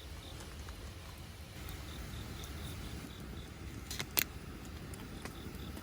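Insect chirping in an even run of short high notes, a few a second, over a steady low rumble, with a couple of sharp clicks about four seconds in.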